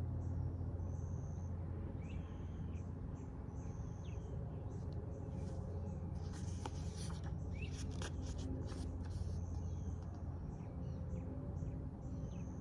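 Birds calling with short, high repeated notes and a few falling chirps over a steady low hum, with a few seconds of scratchy rustling around the middle.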